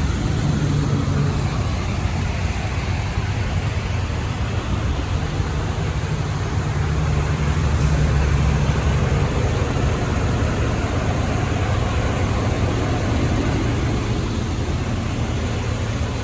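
Truck engine running steadily: a continuous low rumble with noise over it, swelling slightly about halfway through.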